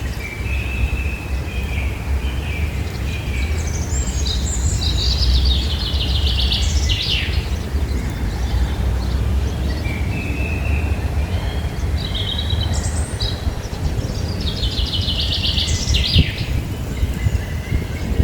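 A songbird singing two similar phrases, each a short warble that runs into a fast, high trill, over a steady low rumble.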